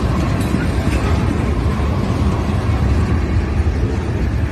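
Loaded ethanol tank cars of a freight train rolling past, a steady low rumble of wheels on the rails.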